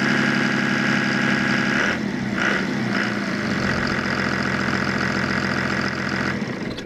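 Cummins 5.9-litre inline-six turbo diesel in a 1999 Dodge Ram 3500, running steadily. Its pitch drops about two seconds in, then it settles, and it shuts off near the end.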